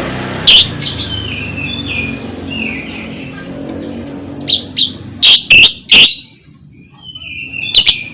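Lovebird calling: loud, shrill single chirps, with a quick run of three about five seconds in, and softer chattering notes that step down in pitch between them. A background hiss fades out over the first few seconds.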